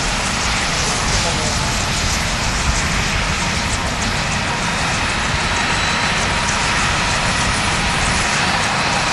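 Aircraft engines running steadily, a dense even noise with a faint high whine, while wind buffets the microphone.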